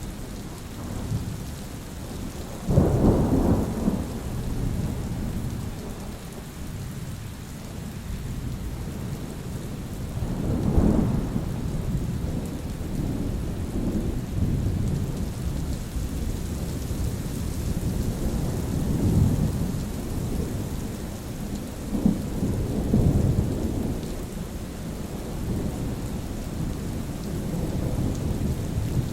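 Steady rain with continuous rolling thunder; a loud sudden thunderclap breaks about three seconds in, and further rumbles swell several times after it.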